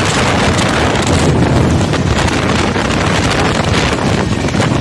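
Loud wind rushing over the microphone on a moving passenger train, over the steady rumble of the coach running along the track.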